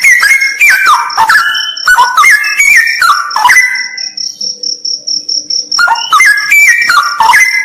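Straw-headed bulbul (cucak rawa) singing loud, bubbling phrases of quick stepped whistled notes, with a pause of about two seconds in the middle. A steady, evenly pulsing high insect trill runs underneath.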